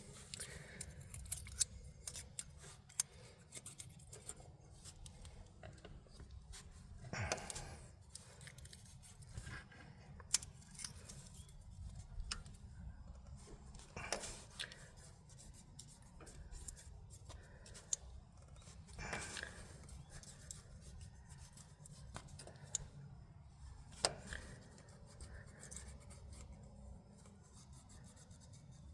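Hand tools working on a stopped inline-six engine's valve train while the valve lash is set: scattered small metallic clicks and taps, with a few brief scraping swishes.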